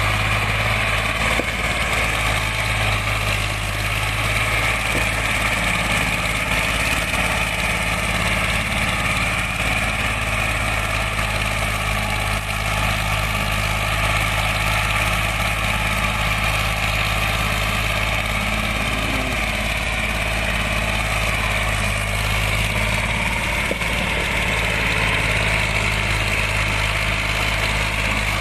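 Swaraj 855 tractor's three-cylinder diesel engine running steadily at an even speed, loud and unchanging.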